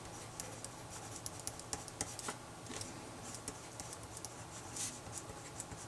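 Pen writing on paper: a run of short scratchy strokes and light taps.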